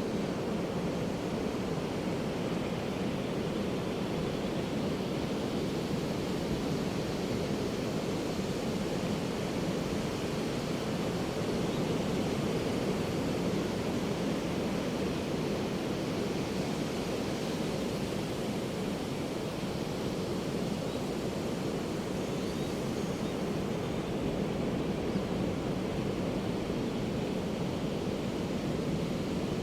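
Ocean surf washing onto a beach, a steady, even rush of waves with no distinct single breakers standing out.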